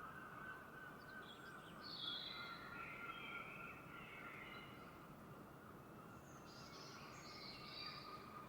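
Faint birds calling at dawn, scattered short calls coming and going over a steady high background drone.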